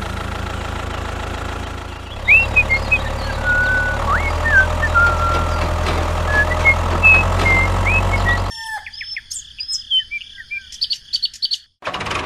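Birds chirping and whistling over a steady low hum; the hum cuts off suddenly about eight and a half seconds in, leaving only the birdsong.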